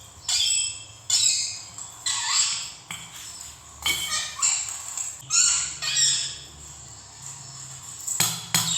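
A bird squawking over and over: loud, short harsh calls that fall in pitch, about one every half second to second, with a brief pause midway.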